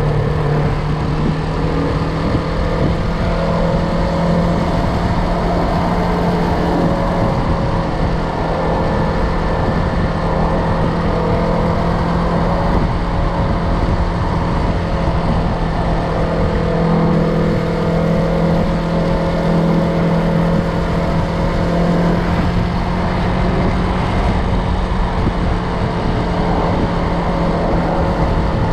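Yamaha MT-03 motorcycle engine running at a steady riding speed, its pitch shifting only slightly. A heavy rumble of wind noise runs under it.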